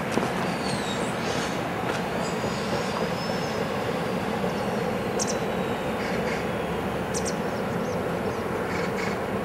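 Last wagons of a long, slow, heavy freight train rolling on a curve: a steady rumble of steel wheels on the rails, with thin high wheel squeals gliding down in pitch over the first several seconds.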